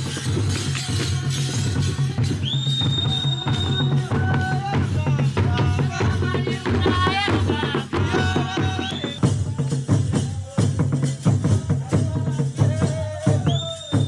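Rwandan traditional dance music performed live: a group singing over drums, with rattles or shakers keeping a steady beat.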